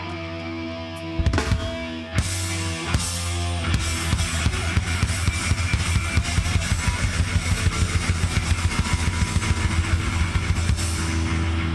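Live metal band playing without vocals. A held, distorted electric guitar chord rings for about a second, then a few heavy hits, and from about four seconds in the full band plays with fast, even drumming and bass drum under distorted guitar.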